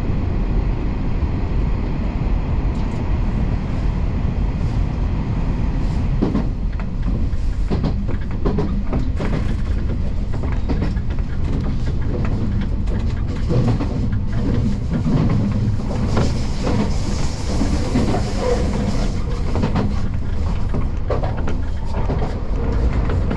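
Keio Inokashira Line commuter train running at speed: a steady rumble, with wheels clicking over rail joints more and more often from about six seconds in.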